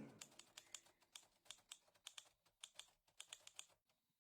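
Faint, quick, irregular clicks like keys being typed on a keyboard, several a second, stopping shortly before the end. The tail of a tiger's roar fades out at the very start.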